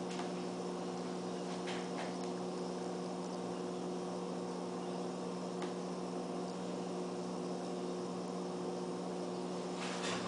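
Steady low hum with a faint hiss under it, like a running appliance or fan, with a few faint soft clicks in the first few seconds.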